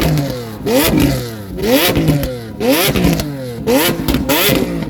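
Sports car engine being revved in quick throttle blips, about one a second, each pitch sweep rising and falling back, with a sharp crackle at each peak.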